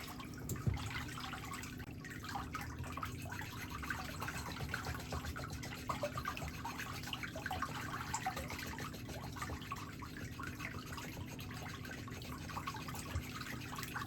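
Foot file rubbing over the soles of the feet, a continuous irregular scratchy rasping, with a steady low hum underneath.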